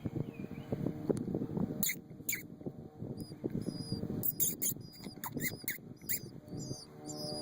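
Rapid, sharp, high-pitched squeaks begin about two seconds in and repeat irregularly: a person's mouth squeaks, made to call baby bluebirds up in their nest box. A low rustle runs underneath.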